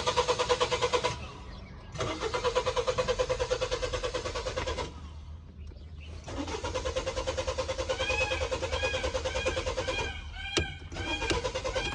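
Car engine cranking on the starter without catching, in three bursts of rapid, even pulses separated by short pauses: repeated failed attempts at a hard start. Two sharp clicks come near the end.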